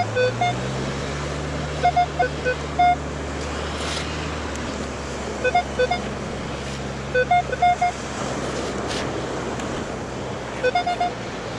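Minelab Equinox 600 metal detector giving short bursts of target beeps, about five clusters at mid pitch, as the coil is swept back and forth over a buried target that comes and goes, taken for a penny. A steady low hum runs underneath.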